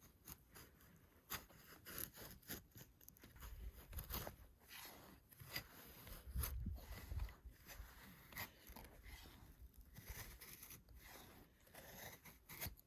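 Faint, irregular scraping, rustling and clicking, with a low rumble about halfway through.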